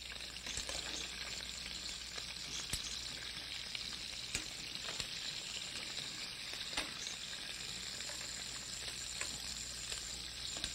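Lobster pieces sizzling steadily in hot olive oil in a stainless steel sauté pan as they sear, with a few sharp clicks of a metal spoon against the pan while the pieces are turned.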